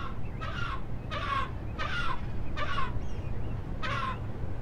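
Bank cormorant fledglings begging for food: a run of short calls repeated about every half to two-thirds of a second, over a low steady rumble.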